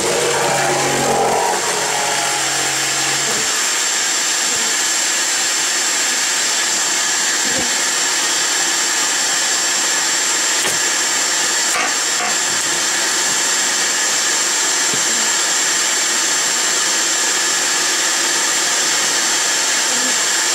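A small motor running steadily, a continuous hiss with a fixed high whine.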